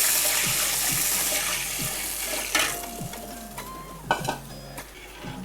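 Watery honey-chilli sauce sizzling in a hot pan, the loud hiss dying away over a few seconds, with a few knocks of a spoon stirring against the pan.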